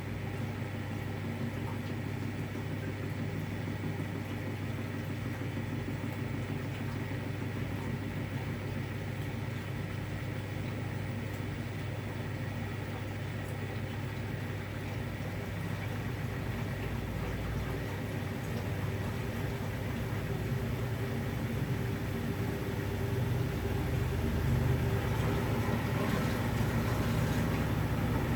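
V-Zug Unimatic SL washing machine running with a steady motor hum, growing a little louder over the last several seconds.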